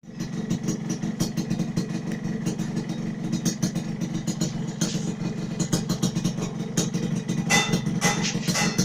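Yamaha RX-King two-stroke single-cylinder motorcycle engine idling through an aftermarket racing exhaust, with frequent sharp crackles that grow stronger about seven and a half seconds in.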